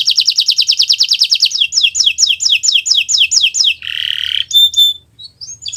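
Canary singing loudly. It opens with a very fast trill, then slows to a series of downward-sliding whistled notes, gives a short harsh buzzy note about four seconds in, and breaks off briefly before resuming near the end.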